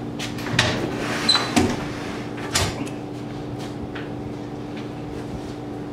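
Footsteps and three or four knocks in the first three seconds, then only faint ticks, over a steady low hum.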